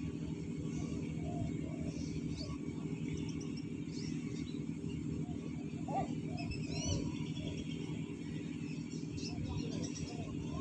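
Small birds chirping in short, scattered calls, a few quick upward-sliding notes among them, over a steady low hum.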